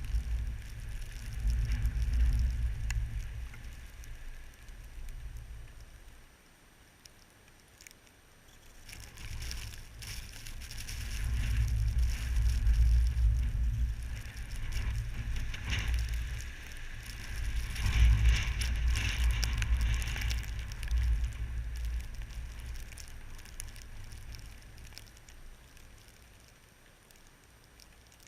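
Blizzard wind blowing in three long gusts, rumbling on the microphone, with a crackly hiss over it, dying down near the end.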